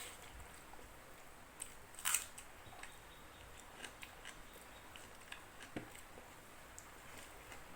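Eating sounds of someone chewing a rice meal: scattered soft clicks and smacks, the sharpest about two seconds in.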